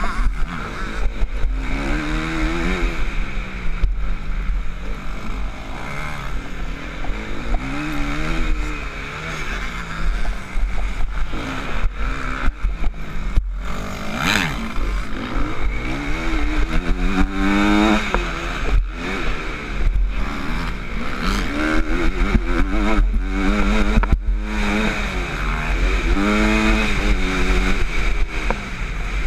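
MX2 motocross bike engine heard from on board at racing speed. Its pitch rises and falls over and over as the throttle is opened and shut through corners and straights, over a steady low rumble.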